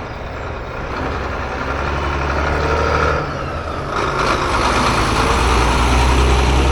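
Heavy diesel truck engine running, a steady low hum that grows louder as the truck approaches.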